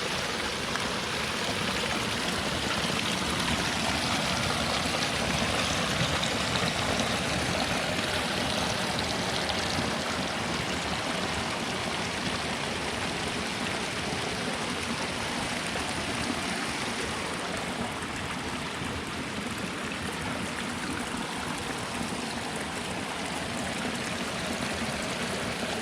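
A shallow stream rushing and splashing steadily over rocks.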